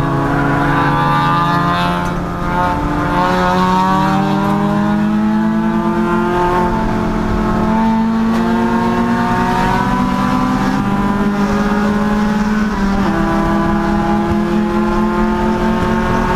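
Chump Car race car engine accelerating under full load, its pitch climbing steadily and dropping sharply at each upshift, about three times.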